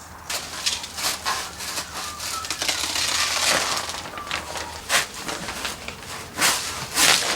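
Plastic bag crinkling and crackling as it is handled, with a string of sharp snaps, the loudest near the end.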